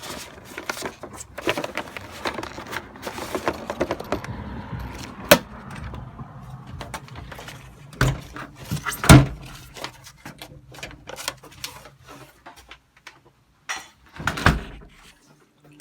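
Handling noises while mail is taken out of a mailbox: a busy run of rustling, clicks and knocks, with sharp knocks about 5, 8 and 9 seconds in, thinning out near the end.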